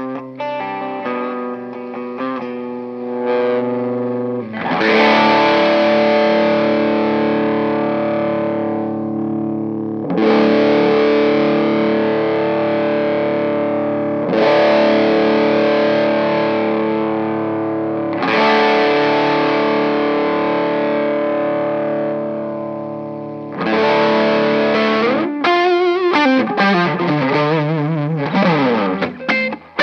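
A 1997 Korean-made Epiphone Les Paul Custom electric guitar played with distortion through an amp. It opens with a picked single-note phrase, then plays five big chords about four to five seconds apart, each left to ring out. Near the end comes a fast lead line with string bends and vibrato.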